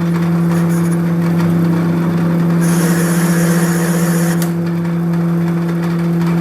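A workshop machine's motor running with a steady, even-pitched hum. From about two and a half seconds in, a high hiss joins it for about two seconds, then stops.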